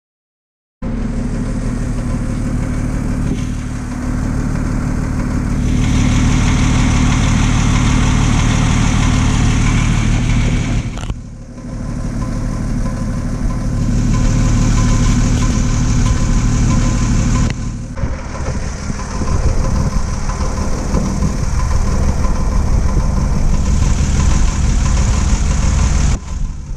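Car engine running at idle, starting up about a second in and running steadily with a few brief breaks. This is the engine whose knock the owner is trying to diagnose, with coolant found in the oil.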